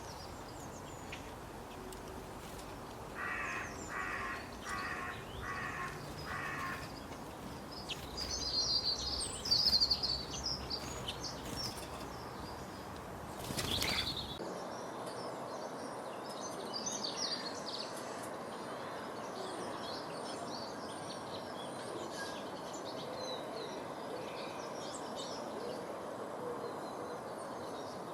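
Birds calling: one bird gives a run of five harsh, evenly spaced calls, followed by high chirps. After a sharp click about halfway through, many small birds keep up a scattered high chirping.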